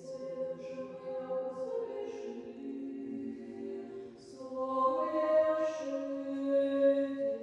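Women's choir singing Orthodox chant a cappella: several voices holding slow, sustained chords with sung words, swelling louder about halfway through.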